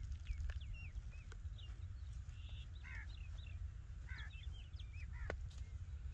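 Small birds chirping, many short up-and-down calls in quick succession, over a steady low rumble.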